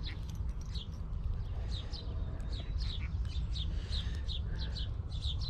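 Small birds chirping, many short high notes several times a second, over a steady low rumble.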